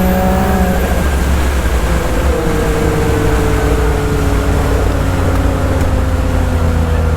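Turbocharged Yamaha YXZ side-by-side's built three-cylinder engine running hard under load. The engine note shifts about a second in, then its pitch slowly falls.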